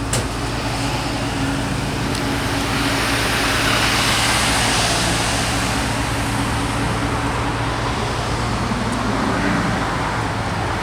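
Road traffic with a vehicle passing, its tyre and engine noise swelling and fading over several seconds, over a steady low engine hum.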